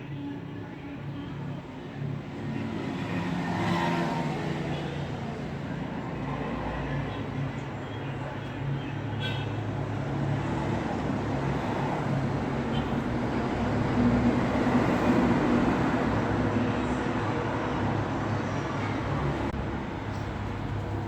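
Road traffic: a continuous rumble of car engines and tyres, with vehicles passing and swelling louder about four seconds in and again around fourteen seconds in.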